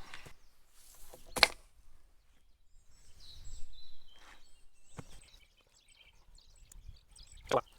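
Three sharp knocks, the first about one and a half seconds in and the loudest, the others about five and seven and a half seconds in, with faint bird chirps between them.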